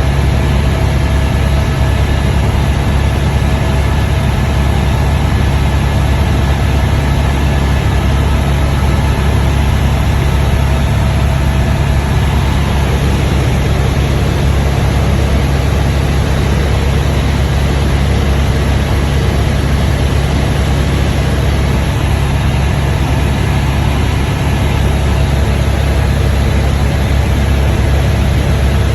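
Helicopter engine and rotor running in a loud, steady drone, deep and unbroken.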